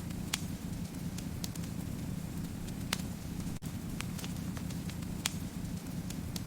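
Wood fire burning with a steady low rumble, and sharp crackles and pops at irregular moments, a few of them louder than the rest.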